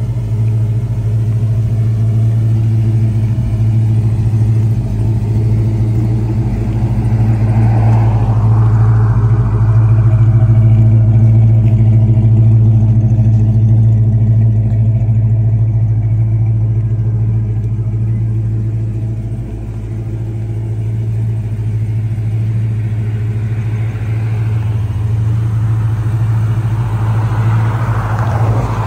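1969 Plymouth Road Runner's V8 engine idling steadily.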